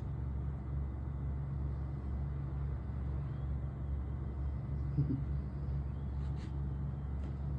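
Steady low outdoor rumble with a constant low hum, with a few faint short high sounds about five to seven seconds in.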